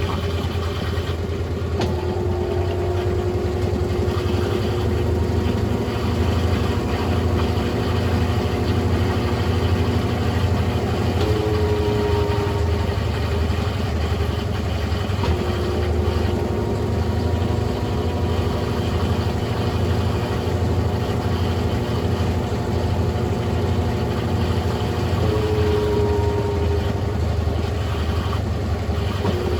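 Brastemp Ative BWL11 washing machine running with a steady motor hum and a whine that shifts in pitch a few times.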